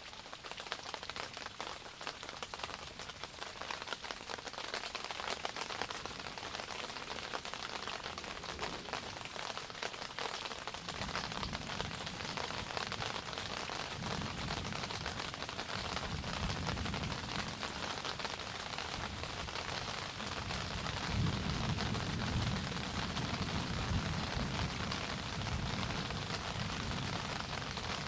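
Heavy rain pattering steadily, slowly growing heavier, with low rumbling swells coming in from about eleven seconds in.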